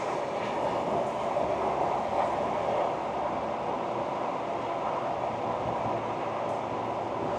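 Ford Ranger Wildtrak pickup driving at a steady speed: an even rush of tyre and road noise with the engine running underneath, no revving or gear changes.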